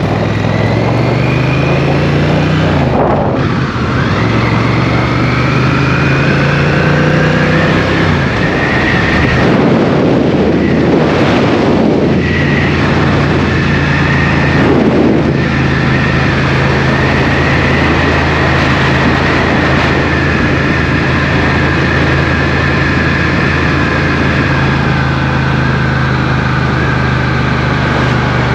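Motorcycle engine running under way, with steady wind and road rush. The engine note steps down about three seconds in and shifts again about eight seconds in, and the rush swells for several seconds in the middle.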